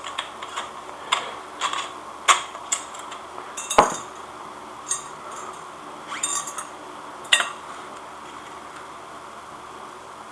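Short steel chain and small hardware clinking and rattling against a steel work-stand frame as the chain is fitted, a string of light metal clinks with one louder knock near the middle. After about seven and a half seconds the clinks stop.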